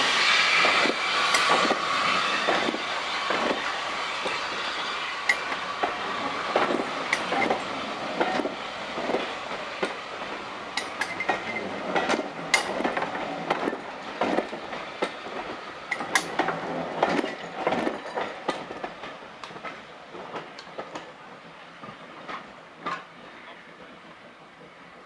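Passenger train going by on a heritage railway, its carriage wheels clicking irregularly over the rail joints, with a fading hiss near the start. The sound dies away steadily as the train moves off.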